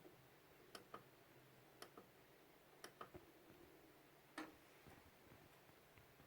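Faint mechanical clicks in close pairs, about one pair a second, over near silence.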